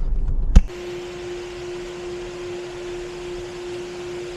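A sharp click about half a second in cuts off a low rumble. Then a steady machine hum holds one even tone.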